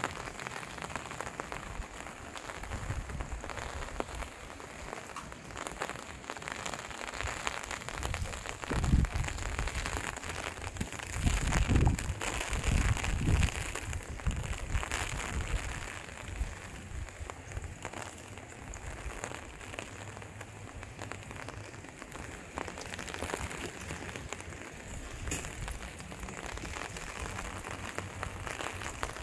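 Light rain pattering steadily, with a few louder low rumbles between about nine and fourteen seconds in.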